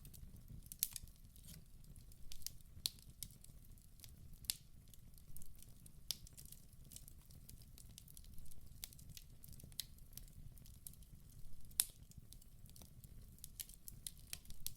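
Wood fire burning in a fireplace: a steady low rumble of flame under irregular sharp crackles and pops, several a second at times, with a louder pop about twelve seconds in.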